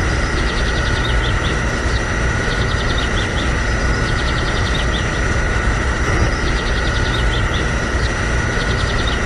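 Small motor of a handmade miniature tractor running steadily, with a low rumble under a constant high whine. Birds chirp in short repeated bursts throughout.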